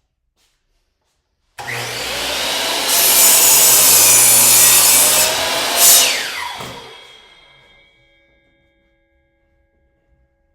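Power miter saw switched on, cutting through a pressure-treated 2x4, then released, its blade whining down to a stop. It starts suddenly about one and a half seconds in and is loud for about four seconds. The pitch falls as it coasts down over the last couple of seconds.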